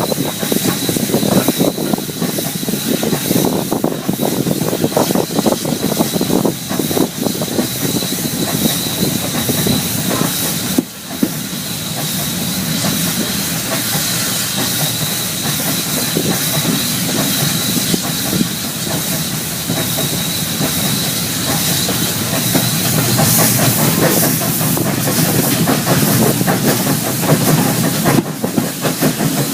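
Steam-hauled heritage train running, with clickety-clack of carriage wheels over the rail joints and hissing steam, over a steady high whine.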